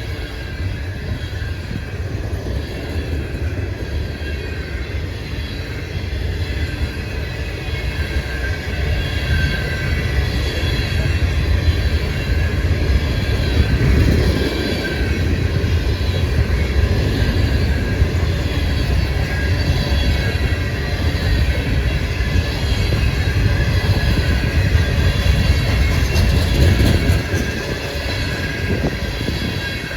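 Loaded coal train rolling past: a steady, heavy rumble of steel wheels on rail, with a faint high squeal from the wheels. The rumble grows louder through the middle and eases off near the end.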